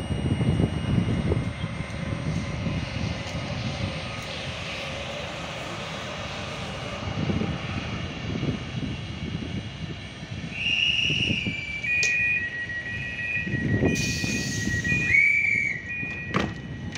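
Distant rumble of an electric-hauled passenger train running through the station, with wind buffeting the microphone. From about ten seconds in, a thin high-pitched whine in steady tones comes and goes and changes pitch for several seconds.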